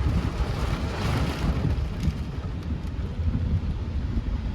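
Wind buffeting the microphone: an uneven low rumble, with a hiss that swells about a second in.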